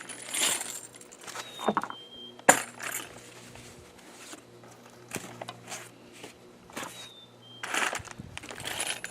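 A bag of small metal hardware (bolts, nuts, washers) being opened and handled: plastic rustling and loose metal parts clinking, with one sharp click about two and a half seconds in.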